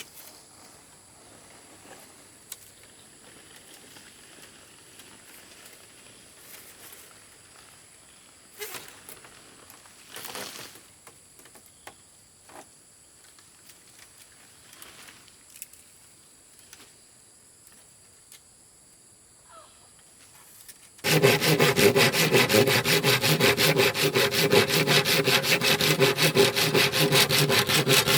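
Faint scattered clicks and rustles, then, about three-quarters of the way in, sawing starts suddenly: loud, fast, even strokes that keep going.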